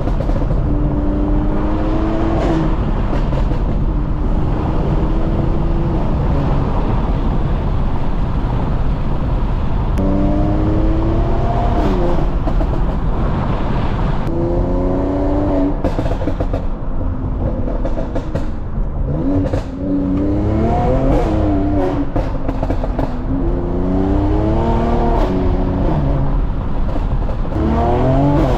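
Mercedes-AMG C43 engine and exhaust pulling hard through the gears, over steady road and tyre noise. The engine note climbs and drops back at each shift, in several runs: about ten seconds in, around fifteen seconds, repeatedly from about nineteen to twenty-five seconds, and again near the end.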